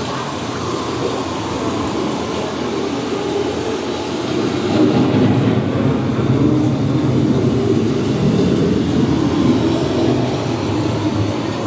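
Steady, loud low rumbling from a simulated thunderstorm with wind and rain, swelling somewhat in the middle.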